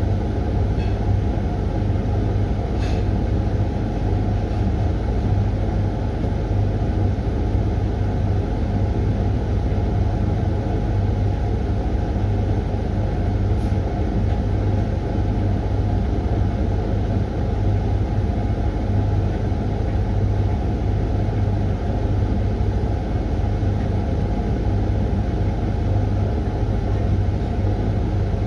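Hoover washing machine running its 20-minute Refresh programme: a steady, even motor hum and rumble that holds unchanged throughout.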